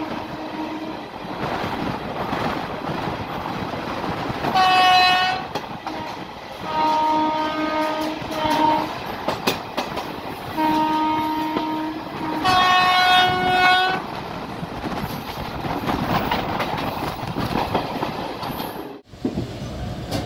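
An Indian Railways train running on the rails with a steady rumble and clatter, while a locomotive horn sounds four blasts, one short and three longer, between about four and fourteen seconds in.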